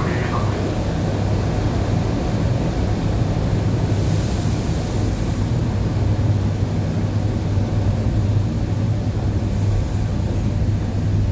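ED9E electric multiple unit running on jointed track, a steady low rumble and hum from the wheels and running gear. A brief high hiss about four seconds in.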